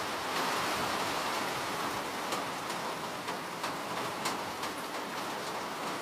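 Steady rain with a constant hiss, and a few separate drops tapping sharply close by through the middle.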